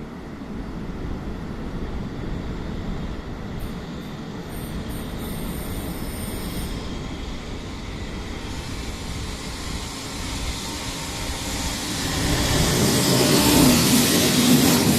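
Freight train hauled by an EF210 electric locomotive approaching: a steady rail rumble that grows louder over the last few seconds as it nears. A brief high, thin sound comes in about four seconds in and stops a few seconds later.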